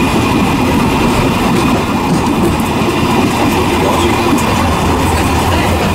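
A small tourist train running along the track, heard from on board: a steady rumble and rattle of the carriages on the rails.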